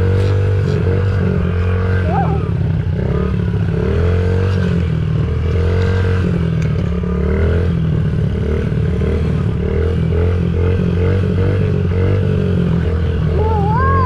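Dirt bike engine running, its revs rising and falling in repeated waves.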